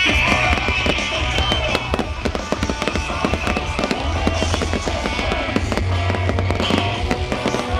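Fireworks crackling and popping in rapid, dense succession, mixed with music that has a steady bass line.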